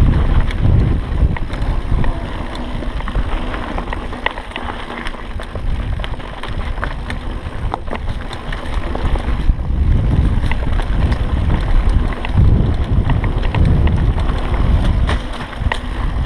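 Mountain bike ridden down a dirt singletrack: wind rumbling on the camera microphone, with many short clicks and rattles from the bike over the rough trail.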